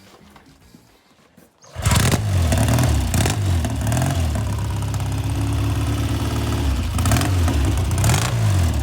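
1968 Triumph Bonneville's 650 cc parallel-twin engine kick-started, catching about two seconds in. It then runs with the throttle blipped up and down several times to keep it going just after starting.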